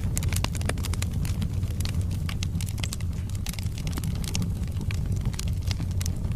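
Wood fire burning in a fireplace: frequent irregular crackles and pops from the burning logs over a steady low rumble of the flames.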